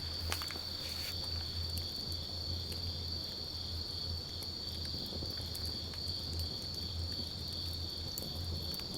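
Wood campfire crackling with scattered small pops, a sharper pop just after the start, over a continuous high-pitched insect trill and a low steady rumble.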